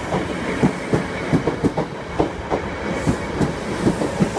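Class 313 electric multiple unit running past at close range, its wheels clattering over the rail joints in an irregular run of clicks and knocks over a steady rumble.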